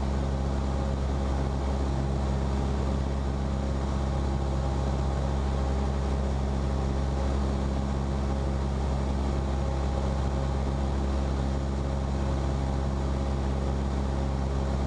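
Cessna 172P's four-cylinder Lycoming engine and propeller droning steadily at constant power in flight, heard from inside the cabin.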